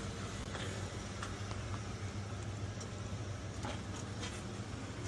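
Steady low hum and road noise from an e-bike in motion, with a few light clicks scattered through.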